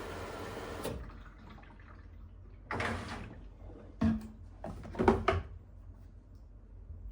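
A steady rushing noise that cuts off about a second in, then a few short knocks and rustles of things being handled indoors.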